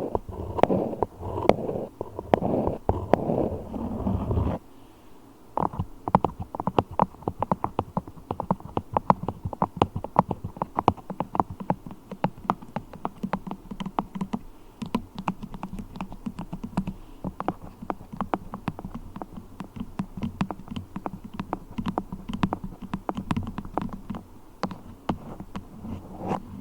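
Beeswax being handled as an ASMR trigger: a few seconds of dense rubbing, then from about five seconds in a rapid, irregular run of small sticky clicks and crackles.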